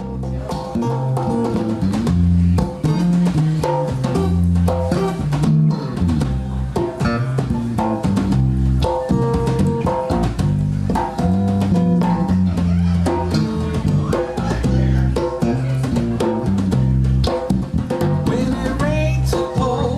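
Instrumental blues band intro: electric guitar and bass guitar over a drum kit with extra percussion, a steady groove with no singing.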